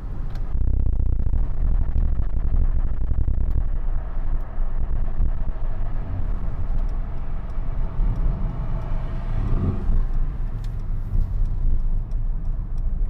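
Mercedes-AMG GLC63 S 4.0-litre biturbo V8 and the car's road noise heard from inside the cabin, a loud steady low rumble that rises about half a second in, with the rear windows down.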